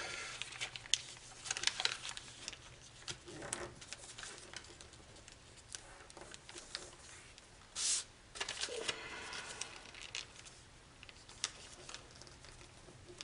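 A sheet of origami foil paper being handled, folded and creased: scattered crinkles and rustles, with a short louder rustle about eight seconds in.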